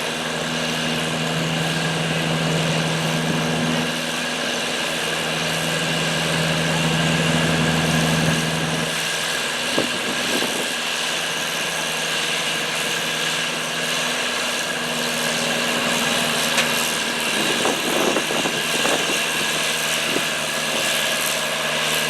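John Deere farm tractor engine running at a steady speed. Its hum drops away briefly about nine seconds in, then comes back.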